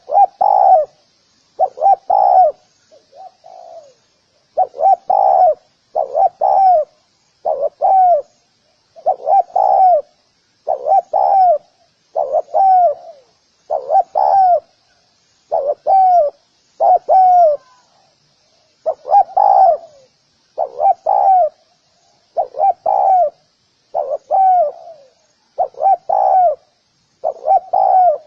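Spotted dove cooing: short phrases of two or three low coos, repeated about every two seconds, over a faint steady high hiss.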